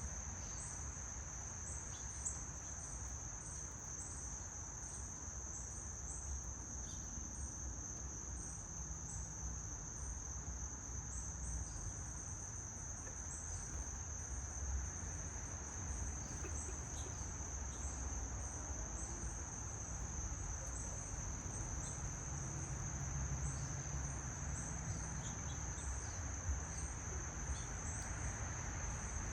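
A steady, high-pitched insect trill, joined by short, higher chirps repeating a few times a second, over a faint low rumble.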